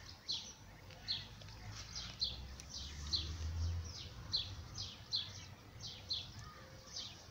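A songbird calling over and over, a short high chirp that slides downward, about two a second. A faint low rumble rises and fades in the middle.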